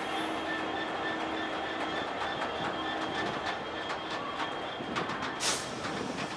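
A freight train's box wagons rolling past at speed, steel wheels clicking over the rail joints more densely as the train goes by. A brief sharp hiss comes about five seconds in.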